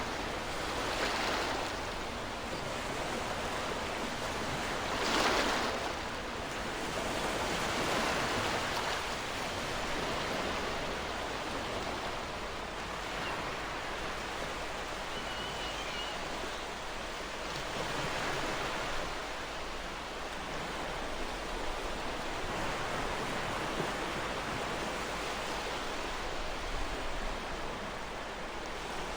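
Ocean waves breaking and washing on a shore, a steady surf wash that swells every few seconds, with one louder wave about five seconds in.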